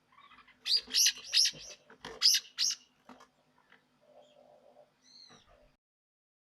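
Small songbird chirping: a quick run of about six loud, sharp calls, then a few fainter calls and a short two-note call about five seconds in.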